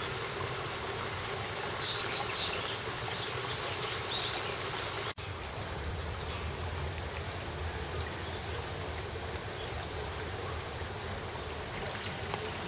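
Steady outdoor park ambience with a low background hum, with a few short high bird chirps about two seconds in and again near four seconds. The sound drops out for an instant just past five seconds, like an edit cut.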